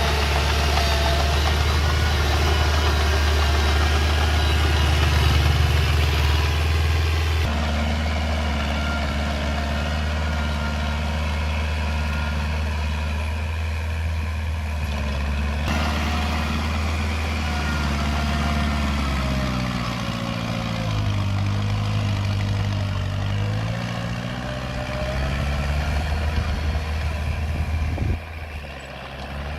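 Komatsu mini bulldozer's diesel engine running steadily under load. Its pitch sags and then climbs back about two-thirds of the way through, and the sound changes abruptly a few times.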